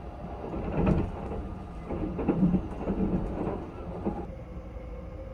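Running noise of the Sunrise Express sleeper train heard from inside the carriage: a steady low rumble of wheels on rails, swelling into a louder, rougher stretch from about half a second to four seconds in, with a sharp knock about a second in.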